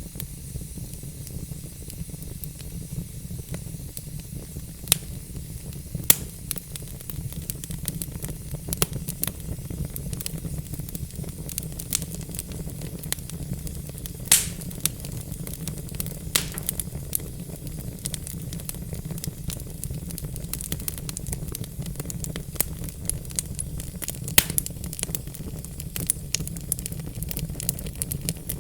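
Wood fire burning in a fireplace: logs crackling with irregular sharp pops over a steady low rumble of the flames and a soft hiss.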